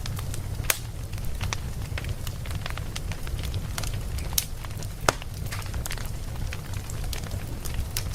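Wood fire burning with a steady low rumble and irregular sharp crackles and pops, a few louder pops standing out.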